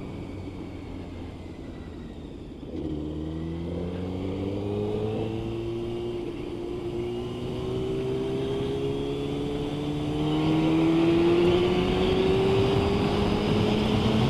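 Motorcycle engine ticking over, then about three seconds in pulling away and accelerating, its note rising in pitch. Wind rush builds toward the end as speed picks up.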